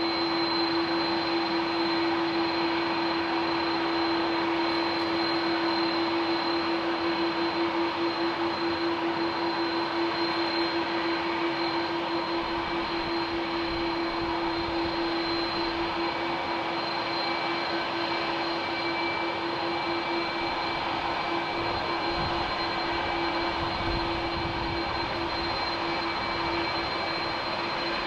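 Jet aircraft engines running steadily: a broad rush of engine noise with a constant low hum and a high whine, neither rising nor falling.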